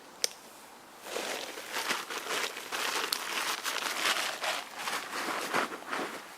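A sharp click, then close, continuous rustling and crunching starting about a second in.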